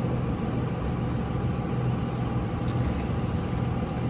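Steady low mechanical rumble with a hum.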